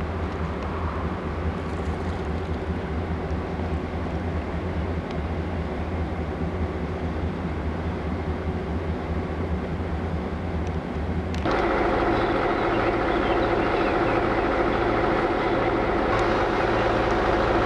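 Passenger train running, heard from aboard. About eleven seconds in the sound changes abruptly to a louder, steadier engine sound with several held tones.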